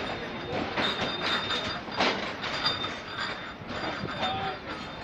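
Passenger train coaches rolling slowly in reverse along the platform: the wheels clunk and click irregularly over rail joints above a steady rumble, with a thin high squeal at times.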